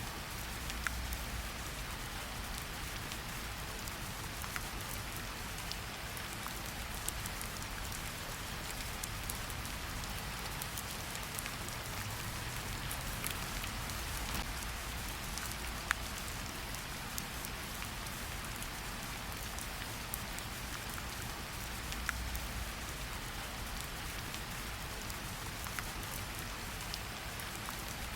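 Steady forest rain falling on foliage and surfaces, an even hiss with scattered louder individual drop hits.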